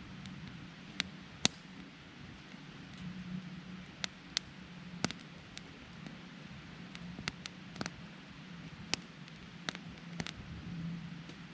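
Wood campfire crackling: sharp, irregular pops and snaps over a steady low hiss.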